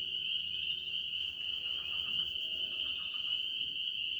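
Night chorus of spring peepers, small frogs calling together as a dense, steady, high-pitched peeping.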